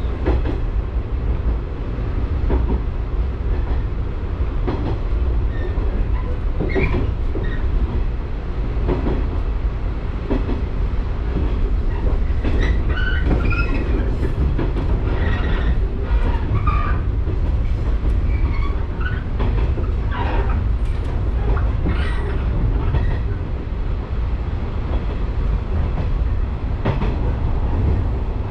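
Electric local train running along the line, heard from on board: a steady low rumble of wheels on rail with irregular clicks over rail joints. Brief wheel squeals come and go about halfway through.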